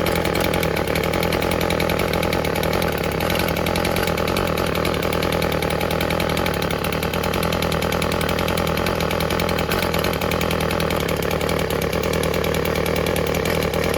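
Stihl FS36 string trimmer's small two-stroke engine running steadily, with no change in speed, which the owner suspects is running a little rich.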